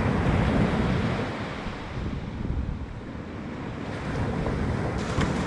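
Sea waves breaking and washing on the beach close by, swelling in the first second or so, easing off in the middle, then building again near the end.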